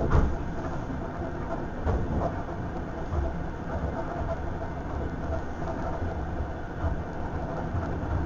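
Passenger train running at speed, heard from inside the car: a steady rumble of wheels on rail with a few knocks as the wheels cross rail joints.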